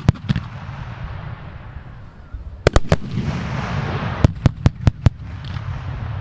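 Aerial fireworks display heard from a distance: a string of sharp bangs, three close together about two and a half seconds in and a quick run of five about a second and a half later, over a steady low rumble and a hissing wash.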